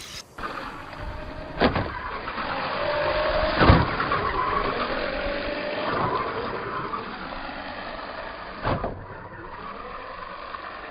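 WLtoys 12423 1:12 RC short-course truck driving, its brushed electric motor whining and rising in pitch for a few seconds in the middle. Three sharp knocks stand out, the loudest about four seconds in.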